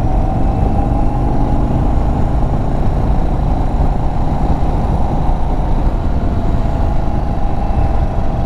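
Indian Chief Bobber Dark Horse's Thunderstroke 116 V-twin running steadily at cruising speed, mixed with heavy wind rush on the microphone of the moving motorcycle. Its pitch rises a little, then eases back near the end.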